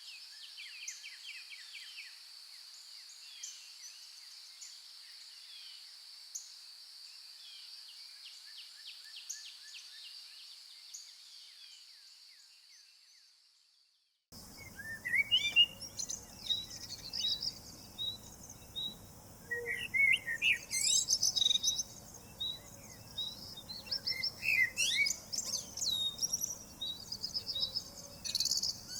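Woodland birds singing at dawn: quieter trills over a steady high whine that fade out to silence about halfway, then louder chirps, quick rising calls and a run of repeated short notes start suddenly over a low background hiss.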